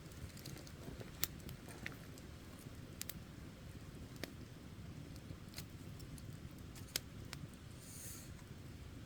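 Campfire burning with a low steady rumble and scattered sharp crackles and pops, a second or more apart, and a brief high hiss near the end.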